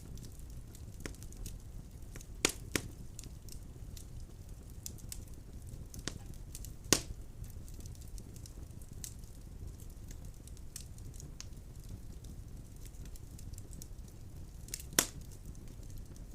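Wood fire burning in a fireplace: a low steady rumble of flames with frequent small crackles and a few sharp pops from the burning logs, the loudest about 2.5, 7 and 15 seconds in.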